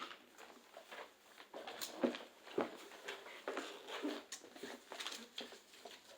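Scattered soft taps, clicks and rustles of paper question cards being picked up and handled.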